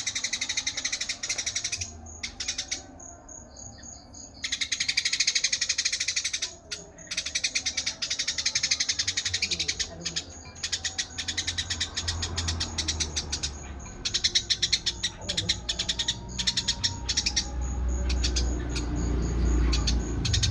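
Eurasian tree sparrows chirping busily in fast runs of short high chirps, broken by brief pauses. A low rumble builds underneath near the end.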